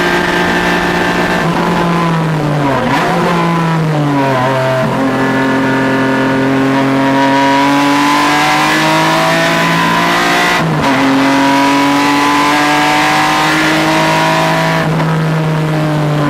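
A car's engine at full lapping pace. Its pitch drops over a few seconds in steps, as if downshifting under braking. It then climbs steadily under acceleration, breaks sharply about ten and a half seconds in for an upshift, and climbs again before falling off near the end as the driver lifts.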